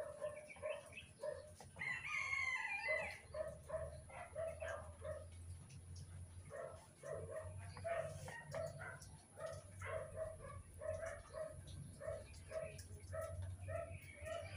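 Birds calling: one long, curved call with rich overtones about two seconds in, over short, low calls repeated about three times a second. A low rumble runs underneath.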